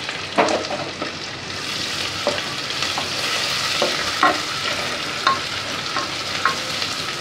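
Ginger-garlic paste sizzling steadily in hot ghee in an aluminium pressure-cooker pot, fried until lightly browned. A wooden spatula stirs it, scraping and knocking against the pot about seven times.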